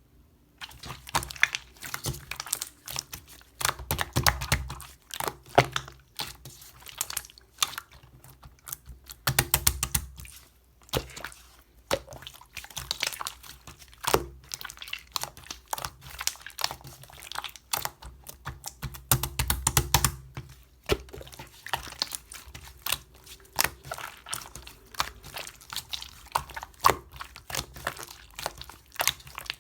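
Mixed slime being squished, pressed and stretched by hand, making a dense run of small clicks, pops and crackles, with a few heavier squelching presses.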